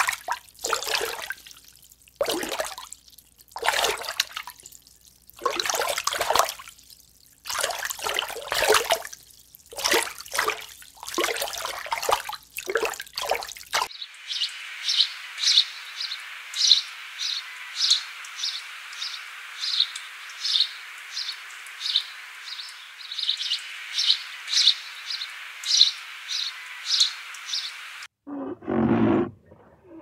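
Irregular surges of rushing, watery noise, then a willow warbler calling with a short high note repeated about twice a second over a steady hiss. Near the end a bison's deep grunting call begins.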